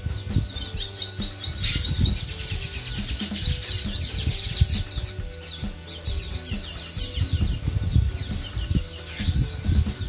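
Small birds chirping in quick high trills, several short bursts of rapidly repeated notes, over soft background music.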